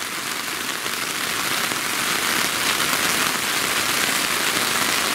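Heavy, steady rain pelting down on a camping tent.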